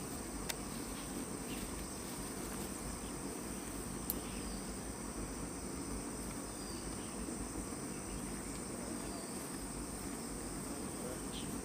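Steady, high-pitched drone of a forest insect chorus, with a couple of faint clicks.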